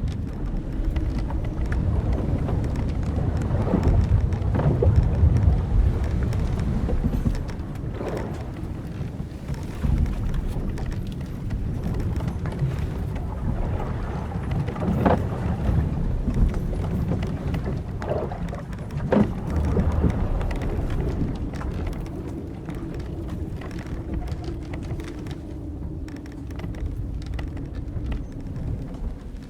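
Old wooden sailing ship at sea: a steady low rumble of wind and waves, with the hull timbers and rigging ropes creaking several times through the middle.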